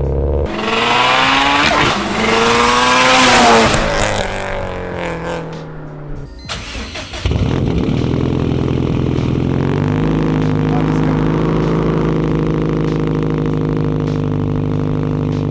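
Subaru WRX STI's turbocharged EJ flat-four, with a big turbo and Tomei catback exhaust, cold-starting: the revs flare up and fall back over the first few seconds, then after a brief break a loud, steady cold idle sets in about seven seconds in.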